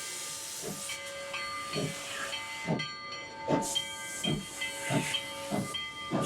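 Steam locomotive hissing steam, then exhaust chuffs starting about a second in, at roughly one a second and coming gradually quicker as it starts to move.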